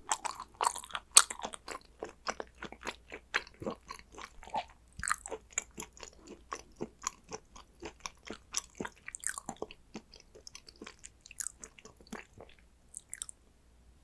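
Close-miked chewing of Korean raw beef tartare (yukhoe): many quick, wet mouth clicks and smacks at an uneven pace, which thin out and stop shortly before the end.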